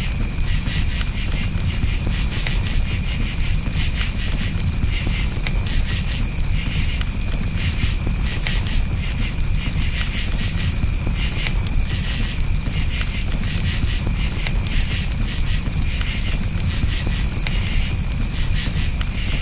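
Crickets chirping in a steady, rapid trill over a crackling campfire, with scattered sharp pops and a low, constant rumble.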